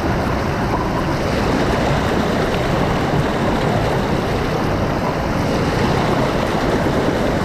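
Rushing water making a steady, loud noise that holds even throughout, with no surges or breaks.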